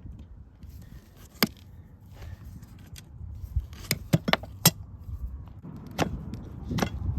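Farrier's tools working on a horse's hoof, making irregular sharp clicks and taps: one a little over a second in, a quick run of four around four seconds in, and two more near the end.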